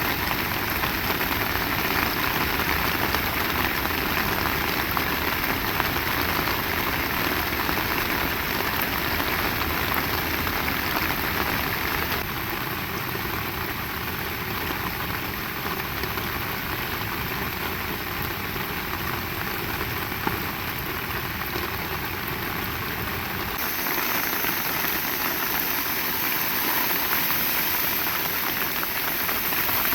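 Heavy rain falling steadily, a dense even hiss. It drops a little in level about twelve seconds in and turns brighter again near the end.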